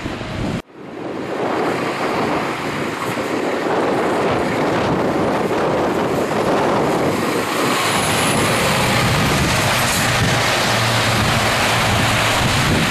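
Truck on the road: steady engine and road noise that swells over the first few seconds after a sudden cut, then holds steady.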